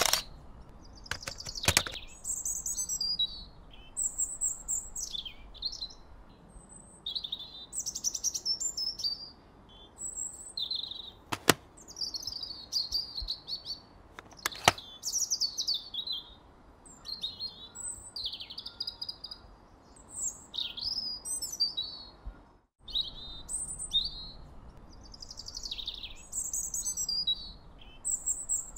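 Small birds chirping again and again in quick, high-pitched phrases, with three sharp clicks scattered through and a momentary cut-out of all sound about three-quarters of the way in.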